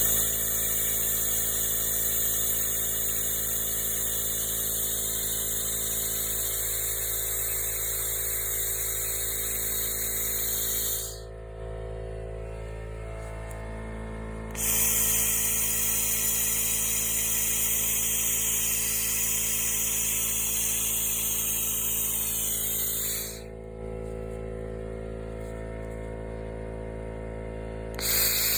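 Laser cleaner ablating rust from a metal exhaust pipe: a loud, high-pitched buzzing hiss that stops twice for a few seconds and starts again, as the beam is switched off and on. A steady machine hum runs under it the whole time.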